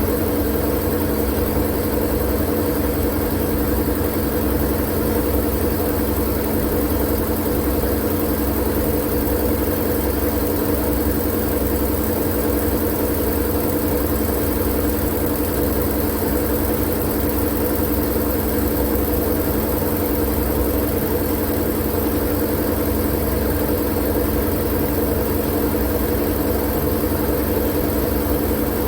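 Steady white-noise sleep sound: a constant, unchanging rushing hum with a deep rumble and a few steady droning tones, like a machine running.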